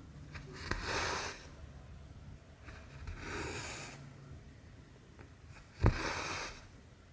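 Cotton thread being drawn through cross-stitch fabric: three short swishes, the first and last each starting with a sharp tap as the needle goes through, the tap just before the last swish the loudest.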